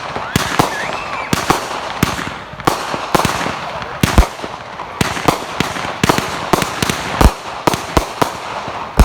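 Fireworks going off: a rapid, irregular run of sharp bangs over continuous crackling, with heavier booms about four, seven and nine seconds in.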